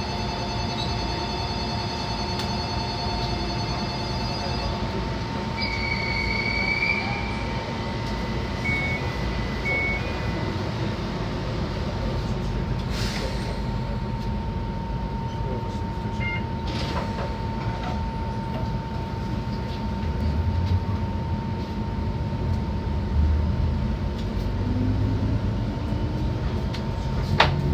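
Enoden electric train with a steady low rumble and an electrical hum. Steady electronic tones sound for the first few seconds, a short rising tone about six seconds in and brief beeps a few seconds later. Near the end a motor whine rises in pitch as the train starts to move.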